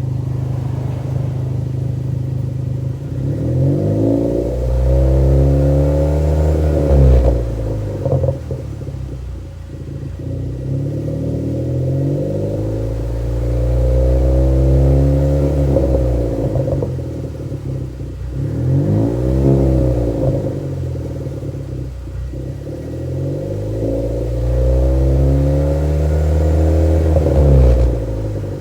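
2016 Ford Fusion's tuned 1.5L EcoBoost turbo four-cylinder, through a custom exhaust, revved slowly from idle about four times. Each rise in pitch is followed by a fall back to idle with crackles and pops on the overrun.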